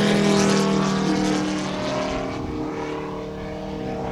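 Moki 250 radial engine of a quarter-scale RC AT-6 Texan running in flight, turning its 32-inch scale propeller with a steady, even drone; loudest at first, then growing quieter over the next few seconds.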